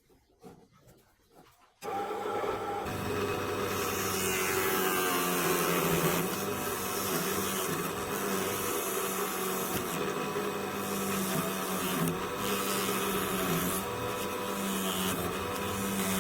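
A small electric motor on a homemade machine for shaping fishing floats from sandal rubber switches on about two seconds in. It then runs steadily with a constant hum.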